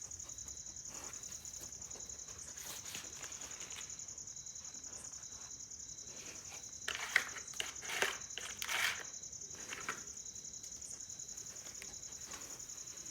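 Insects chirring in a steady, high, finely pulsed trill throughout. A few short, louder rustling bursts come a little past halfway.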